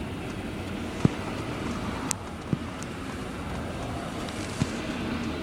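Steady low rumble of a long freight train of flat cars rolling past, heard from inside a car's closed cabin, with a few faint clicks.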